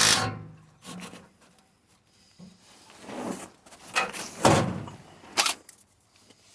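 Ratchet wrench loosening exhaust bolts under a Ford Econoline E350 van: a series of short ratcheting, scraping strokes with pauses between them, the loudest about four and a half seconds in.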